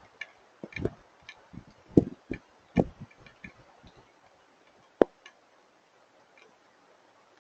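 Scattered hailstones striking a hard surface: irregular sharp ticks, a few louder than the rest, growing sparse after about four seconds.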